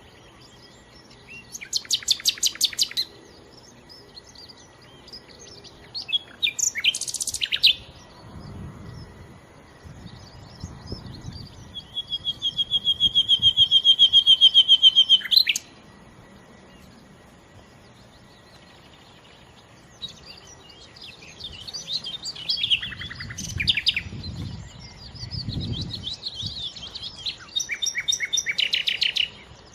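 Nightingale singing in separate phrases broken by pauses: a fast rattle of notes, a short varied phrase, then a long run of repeated notes that swells steadily louder before cutting off. In the last third come busier, varied phrases.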